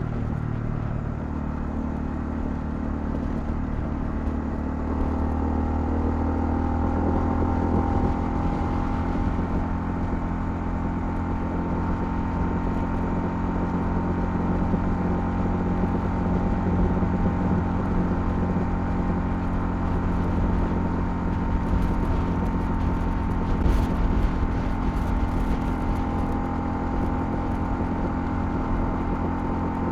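Honda CL250 single-cylinder motorcycle engine under way with wind and road noise. It rises in pitch as it accelerates over the first few seconds, then holds a steady cruising note.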